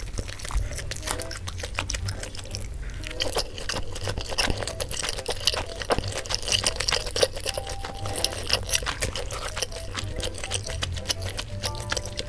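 Close-up eating sounds: chewing with wet, crackly mouth noises, over soft background music.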